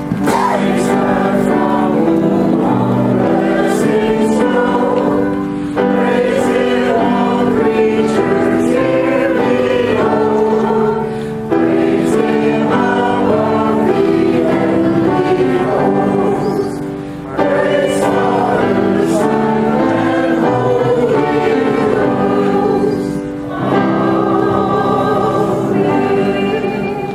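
Church choir singing a slow gospel hymn in held chords, phrase by phrase, with a short break between phrases about every six seconds.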